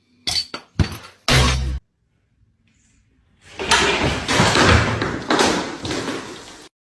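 A few sharp knocks and a heavy thud, then after a short pause about three seconds of loud, dense clattering noise that fades and stops suddenly.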